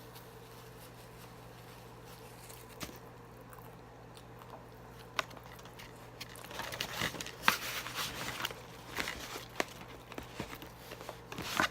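Close-up crunching and crinkling of crispy fried chicken and its paper packaging being handled, starting about six seconds in as a dense run of crackly clicks. Before that there is only a faint steady hum with a couple of isolated clicks.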